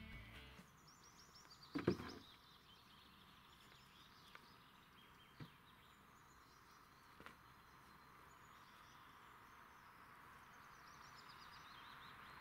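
Quiet outdoor ambience with a small songbird's high chirping trills in the background, a single sharp knock about two seconds in, and a few faint clicks.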